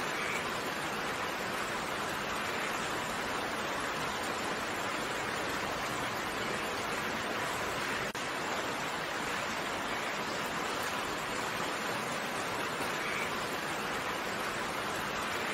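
Steady rain falling as an even hiss, with a momentary dropout about eight seconds in.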